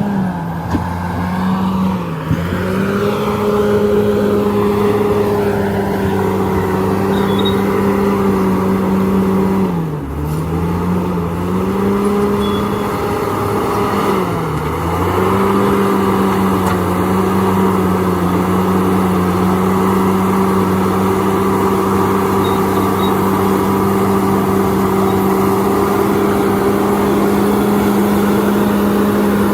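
Diesel engine of a heavy earthmoving machine running hard and steady, its pitch sagging briefly and recovering four times, twice in the first few seconds and again around the middle.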